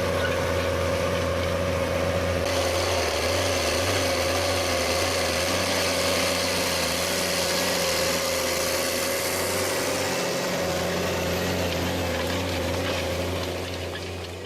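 Tractor and trailed potato harvester running steadily: a steady engine hum under a constant mechanical rattle. It fades over the last second and cuts off.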